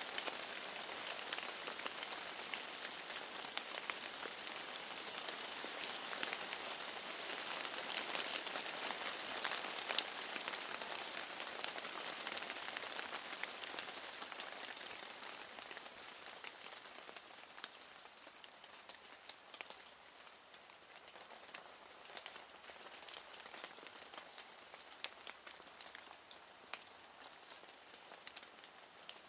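Steady rain with many small drops ticking against the window glass, heavier in the first half and easing off somewhat in the second.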